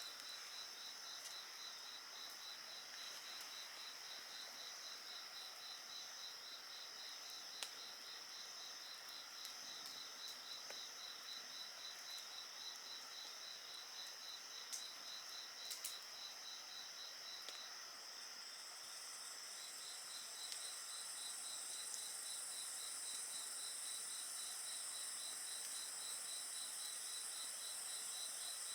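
Crickets and other insects chirping: one steady pulsed chirp that pauses briefly past the middle, over a continuous high trill, with another high-pitched insect joining in after the pause. A few sharp pops from the campfire crackling.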